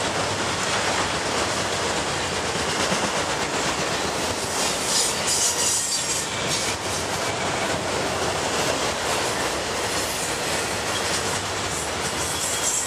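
Freight train of autorack cars rolling past close by: a steady rumble of wheels on rail with clattering over the rail joints, and brief high metallic wheel squeal about five seconds in and again near the end.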